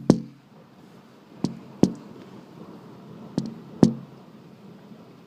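Sharp knocks in pairs, about three pairs two seconds apart, over a faint steady hiss of heavy rain.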